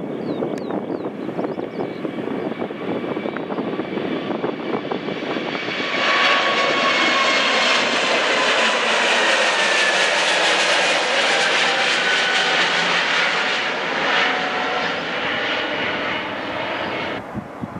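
Jet airliner engines: a steady rumble with wind, then, about six seconds in, a sudden jump to a loud close jet roar whose engine whine falls in pitch as the aircraft passes. It cuts off abruptly near the end.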